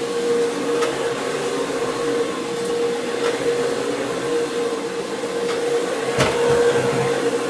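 Carpet cleaning equipment running steadily: a motor drone with a constant whine over a rushing hiss, with a sharp knock about six seconds in.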